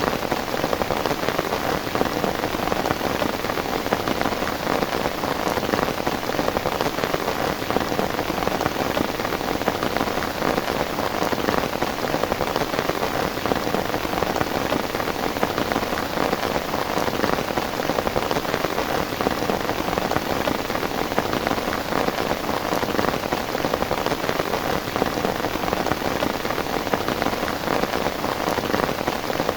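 Heavy rain falling steadily, a dense, even hiss of countless drops striking a surface, with no let-up.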